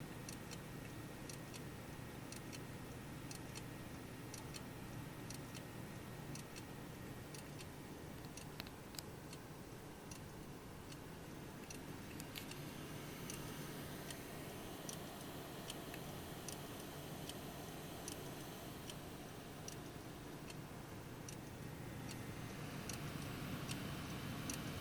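Hard disk drive's read/write heads seeking back and forth, making irregular clattering clicks a few times a second over a steady low hum. The owner wonders whether this is a sign the roughly two-year-old drive is nearing the end of its life, though it shows no read or write errors.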